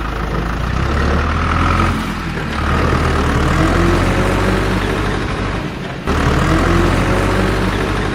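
Engine running with a steady low hum, its pitch swelling and falling, with short drops about two and six seconds in.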